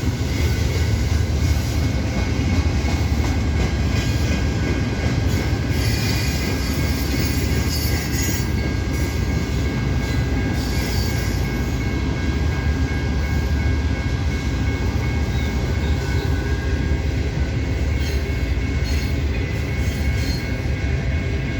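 Freight cars of a manifest train rolling past with a steady heavy rumble, and a thin steady high squeal from the wheels.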